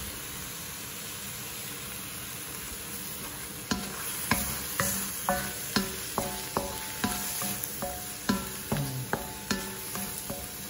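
Shrimp and squid sizzling as they fry in oil and spice paste in a wok, stirred with a wooden spatula. From about four seconds in, a run of short plucked notes at changing pitches comes in over the frying, like background music.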